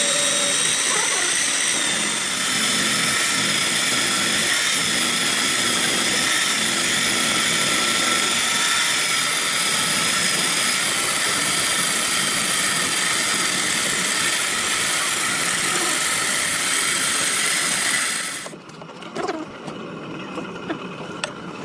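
A machine running steadily with a high whine, cutting off sharply near the end, followed by a few clicks and knocks.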